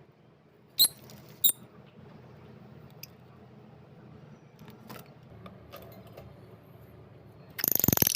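African lovebird giving two short, high squeaky chirps about a second in, followed by a few faint clicks. Near the end comes a louder, rapid rasping burst lasting about half a second.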